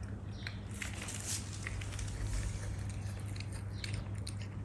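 A cat eating, with irregular small crunching and chewing ticks as it bites into its food.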